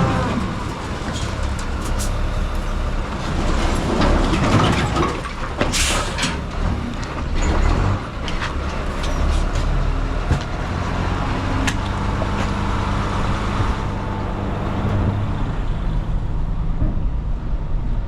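A skid steer's engine running under work, with scraping and a few sharp knocks as material is pushed and moved.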